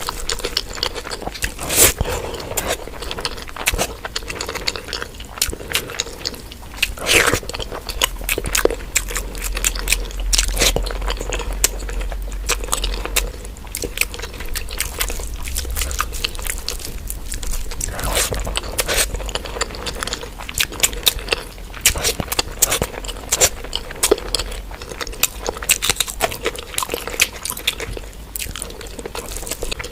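Close-miked chewing and mouth sounds of a person eating curry with rice: a steady run of wet smacks, bites and sharp clicks at irregular intervals.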